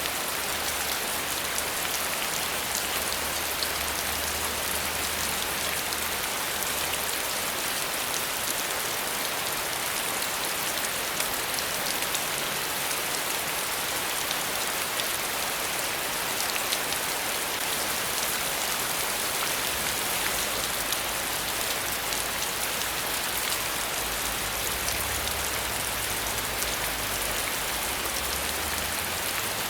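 Steady rain falling, a dense even hiss of many drops striking a surface.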